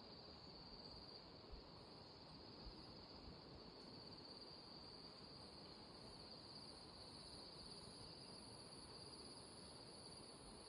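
Faint, steady insect chorus: a continuous high-pitched trill, with a second, higher trill growing stronger about four seconds in.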